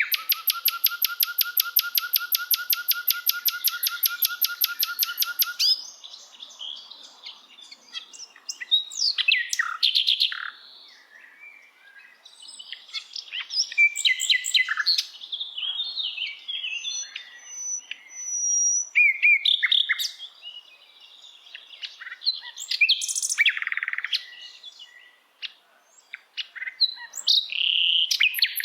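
Songbirds singing: a fast, even trill of about seven notes a second that lasts about six seconds and stops, followed by assorted high chirps, whistles and short song phrases from several birds, with brief pauses between.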